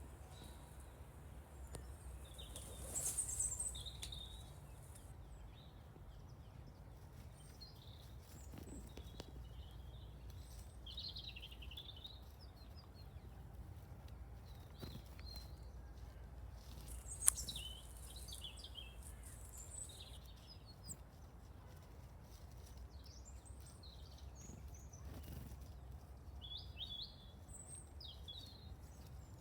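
Short, scattered chirps and calls of small songbirds, great tits and a European robin, over a steady low background rumble. A single sharp click about two-thirds of the way through.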